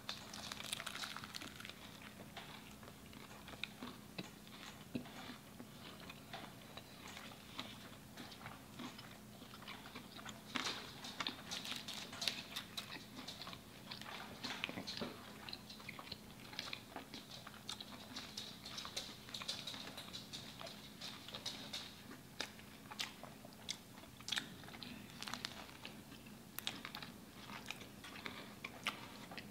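Close-up chewing and biting of a spicy crispy chicken sandwich with bacon on a croissant bun: irregular crunches and wet mouth clicks.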